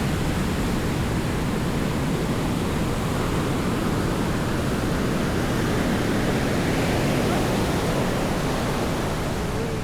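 Steady rushing noise of sea surf and wind, with no distinct breaks or surges.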